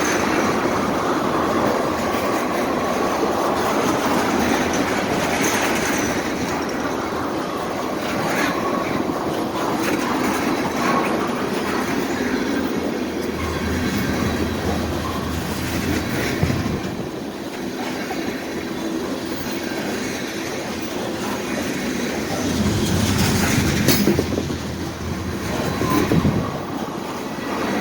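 A train rolling past: steel wheels clattering over rail joints in a steady, continuous rumble.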